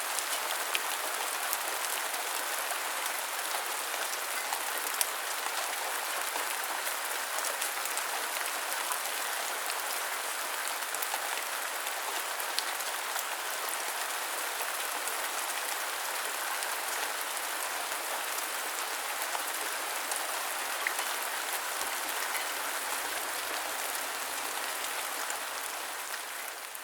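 Steady rain falling, an even hiss with scattered sharp drop ticks, fading out near the end.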